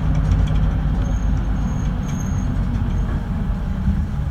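Steady low engine and road rumble inside a moving route bus.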